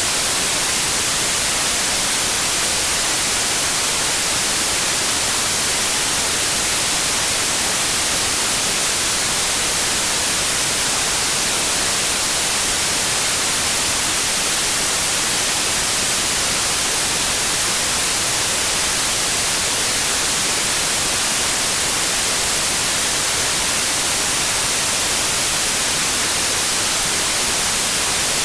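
Steady, even white noise: a constant bright hiss with no changes.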